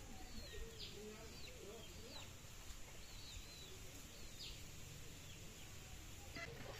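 Faint outdoor ambience of birds: several short, high chirps scattered through, over a faint low background murmur.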